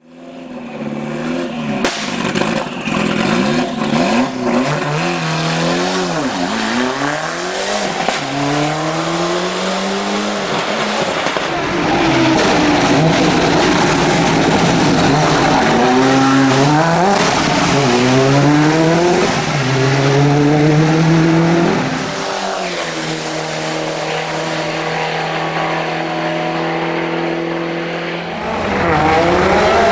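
Ford Escort Cosworth's turbocharged four-cylinder rally engine, revving hard and climbing through the gears again and again, with sharp cracks in the first few seconds. Later it holds a steady pitch for several seconds before revving up again near the end.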